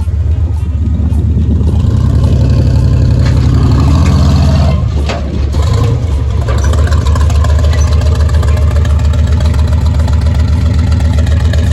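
Truck engine pulling under load, building from about two seconds in, easing off briefly around five seconds, then running on at a steady pitch.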